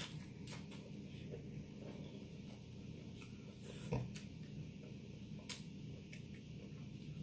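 Close-miked eating sounds of someone chewing a taco: scattered soft crunches and wet mouth clicks, with one louder smack about four seconds in.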